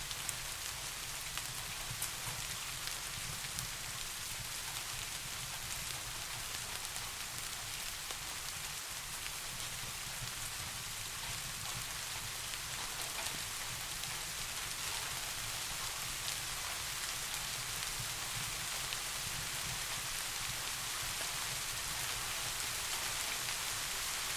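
Steady rain falling, a dense even hiss with faint scattered drop ticks and a low rumbling undertone.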